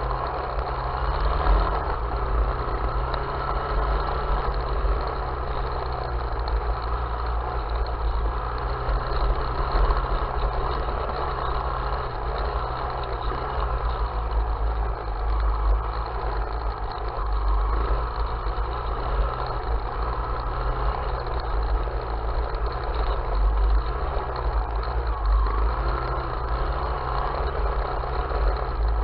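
Small off-road vehicle engine running steadily while riding, with small rises and dips in level and a deep fluttering rumble underneath.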